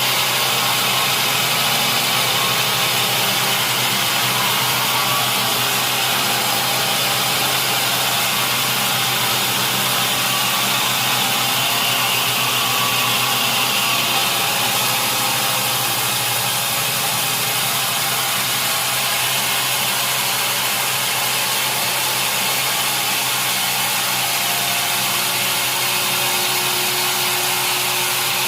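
Sawmill machinery running steadily: a constant, loud engine and saw noise that does not let up.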